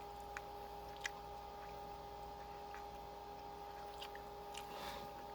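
Faint eating sounds over a steady electrical hum: quiet chewing of fried rice, with a couple of small clicks about half a second and a second in.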